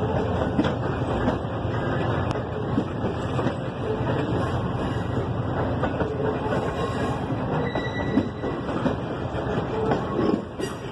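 A passenger train rolling along the rails at a station: a steady rumble of wheels on track with scattered clicks, and a faint wheel squeal about eight seconds in.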